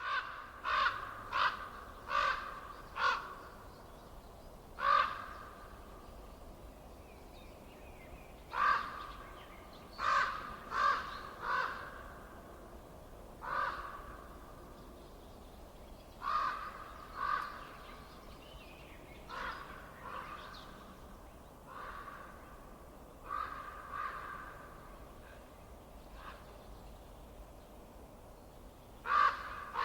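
A bird calling harshly, about nineteen short calls in irregular runs of one to five, over a faint steady low background hum.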